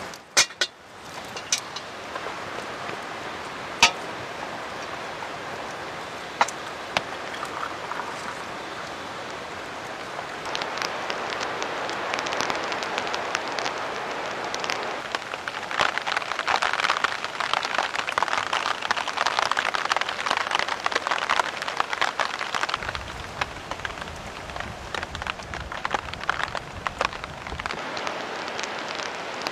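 Steady rain falling, growing heavier about a third of the way in, with a few sharp clicks in the first few seconds and a low rumble for several seconds near the end.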